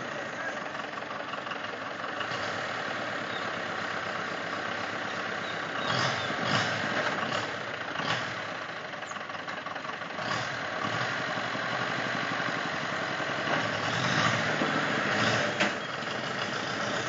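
Tractor engine running steadily, getting louder briefly a few times: about six seconds in, about ten seconds in, and again near the end.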